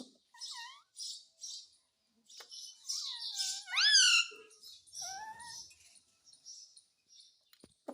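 Pet parrot chattering in short, scratchy bursts, with a loud rising whistled call about four seconds in.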